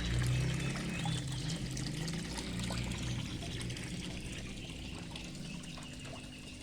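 Water pouring and trickling, the stream weakening toward the end.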